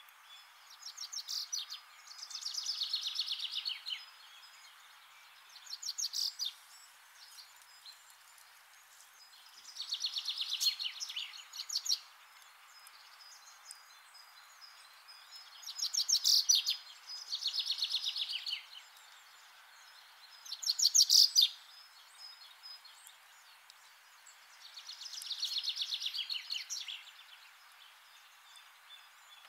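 Birdsong: short, rapid, high-pitched trilled phrases, each lasting one to two seconds and repeated every few seconds over a faint steady hiss of outdoor ambience.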